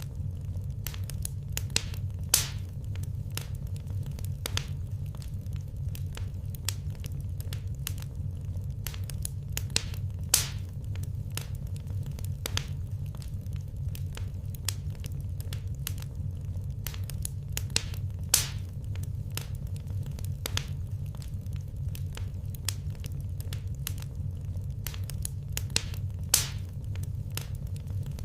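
Wood fire crackling in a fireplace: a dense stream of small snaps and ticks with a few louder pops, over a steady low rumble.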